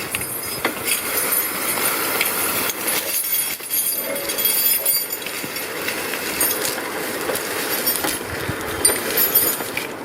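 Metal clinking and rattling with many sharp clicks, typical of chains and choker hardware being handled or dragged.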